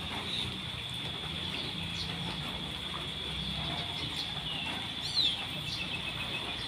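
Songbirds chirping outdoors, with a sharp falling call about five seconds in followed by a short trill, over a steady high-pitched whine and a low hum.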